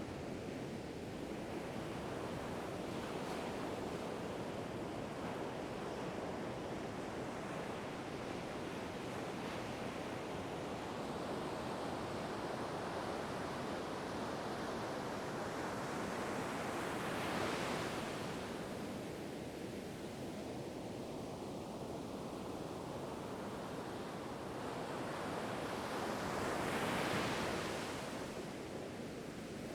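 Ocean surf washing continuously, with two waves breaking louder, about halfway through and again near the end.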